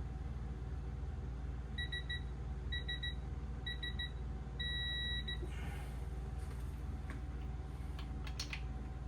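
Electronic beeping from a digital torque wrench: three quick groups of short beeps, then one longer steady beep, the signal that the set torque on a bolt has been reached. A steady low hum runs underneath.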